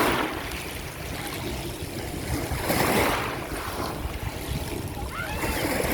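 Black Sea waves breaking on the shore, each wash of surf swelling and fading about every three seconds, with wind on the microphone.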